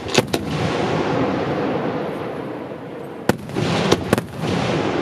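Fireworks display: aerial shells bursting, with two sharp bangs just after the start and three more about three to four seconds in, over a continuous dense noise of the display between them.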